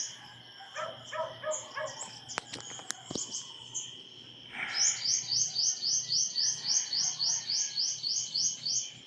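Birds chirping in repeated short calls. From about halfway in, a louder run of high chirps comes at about four a second, over a steady high insect drone.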